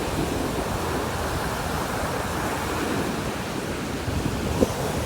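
Ocean surf breaking and washing onto the beach, a steady rushing, with some wind rumbling on the microphone.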